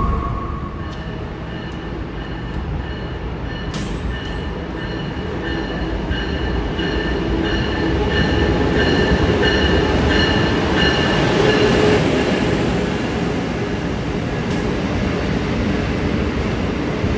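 A streamlined Amtrak passenger train runs into the station and along the platform. Its rumble builds to a peak in the middle, with high, steady squealing tones over it, and there is a sharp click about four seconds in.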